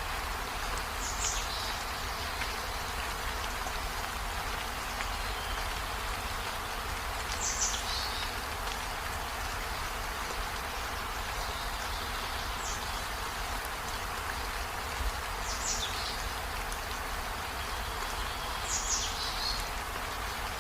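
Steady rain falling, an even hiss with a low rumble beneath it. Five brief high-pitched sounds rise above it, a few seconds apart.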